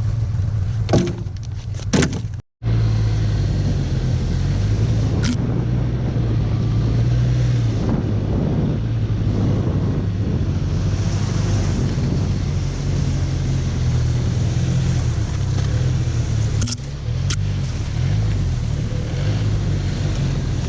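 2019 Arctic Cat Norseman 3000 snowmobile's four-stroke engine running steadily under load while packing down deep snow on a freshly broken trail, its pitch rising and falling with the throttle. The sound cuts out completely for a moment about two and a half seconds in, and a few sharp ticks come through.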